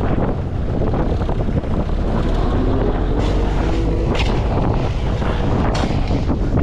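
Tractor engine running steadily, with blizzard wind buffeting the microphone. A few brief sharp noises stand out about three, four and six seconds in.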